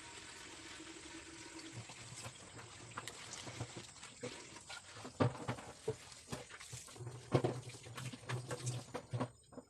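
Water running steadily for the first couple of seconds, then a string of irregular knocks and clatters, with a low hum at times.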